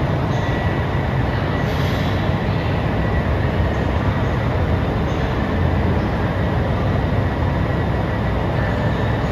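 JR Hokkaido KiHa 283 series diesel express train running, a steady rumble that holds even throughout.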